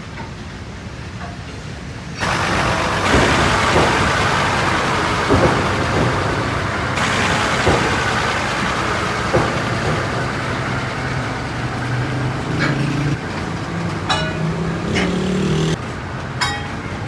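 Heavy machinery running, with scattered metallic knocks and clanks. The sound changes abruptly several times.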